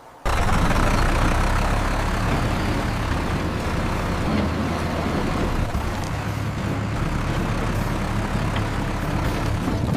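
A vehicle engine running steadily with a low hum. It cuts in suddenly just after the start.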